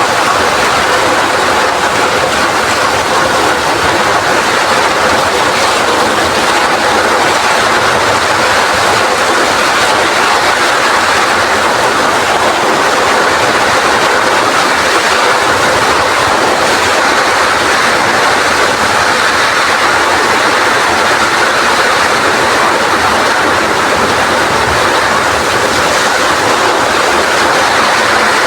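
Heavy rain falling in strong wind: a loud, steady rush with no breaks.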